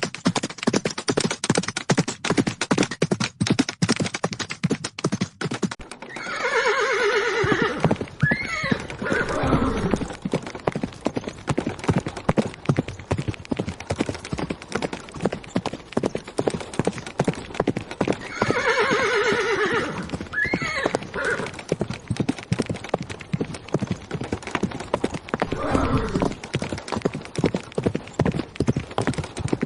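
Horses galloping: rapid, unbroken hoofbeats, with a horse whinnying loudly about six seconds in and again about twelve seconds later, and fainter whinnies near the end.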